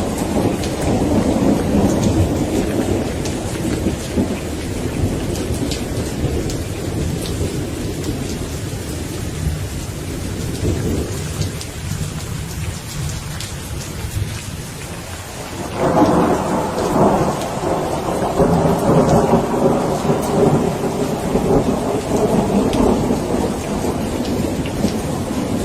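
Steady rain with thunder rumbling; a fresh thunderclap breaks in suddenly about two-thirds of the way through and keeps rolling to the end.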